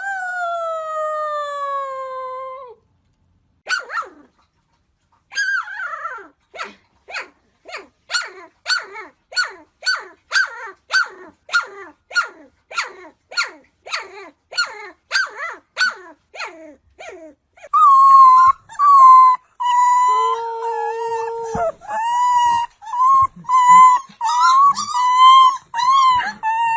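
Puppies howling: a long howl falling in pitch, then a run of short yipping calls about two a second, then a long wavering howl, joined briefly by a lower second voice.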